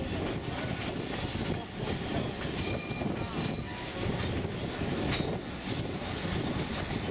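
Narrow-gauge sugar-cane train cars of the St. Kitts Scenic Railway rolling along the track: a steady rumble of wheels on rail, with thin high wheel squeals.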